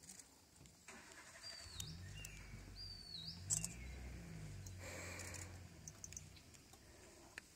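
Small birds chirping faintly, several short whistled calls that sweep up and down in pitch, over a low steady hum that fades near the end. A sharp click about three and a half seconds in is the loudest moment.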